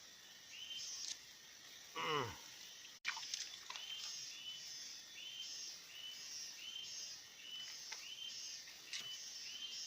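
Outdoor insect and bird chorus: a short chirping call repeats about every two-thirds of a second over a pulsing insect buzz. A single loud falling call sweeps down in pitch about two seconds in, and there are a few sharp clicks.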